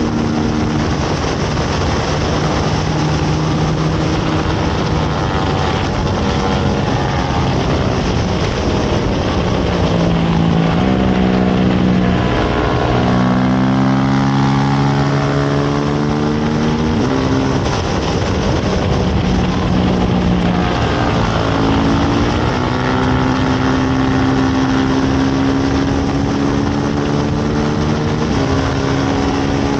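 Race motorcycle's engine heard onboard at racing speed under heavy wind rush. It drops in pitch in several steps as the rider brakes and downshifts into a corner about a third of the way in. It then revs back up with upshifts as the bike accelerates out of the corner.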